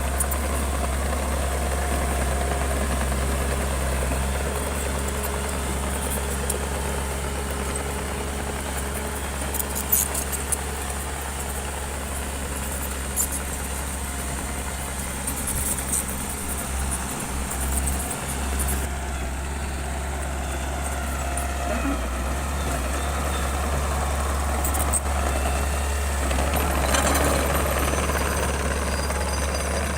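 Bulldozer's diesel engine running steadily with a deep, constant drone, with a few brief sharp knocks from the machine.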